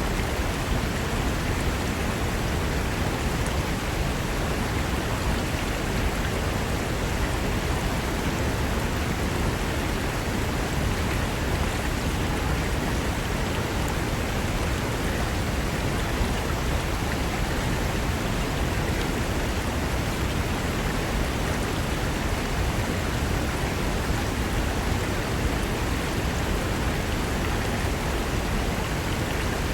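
Fast mountain river rushing over rocks: a steady, even roar of churning water that does not change.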